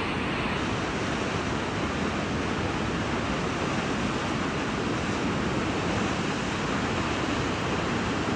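Kegon Falls, a tall waterfall, pouring: a steady rush of falling water.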